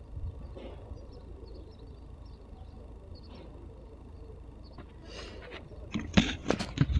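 Faint bird chirps over a low outdoor rumble, then a burst of rustling and sharp knocks near the end, likely handling noise.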